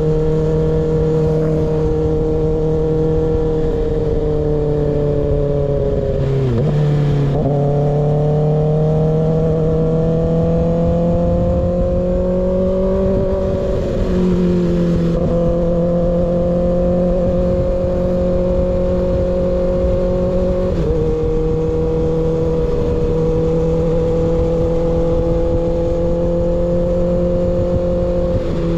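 Kawasaki ZX6R inline-four through an unbaffled M4 GP19 slip-on exhaust, running at steady part throttle on the move. The engine note climbs slowly, dips and recovers about seven seconds in, then drops a little at gear changes about halfway, about three-quarters of the way and near the end.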